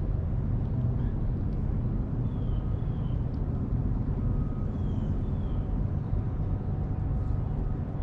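Steady low outdoor rumble with faint pairs of short, falling bird call notes twice, a few seconds apart.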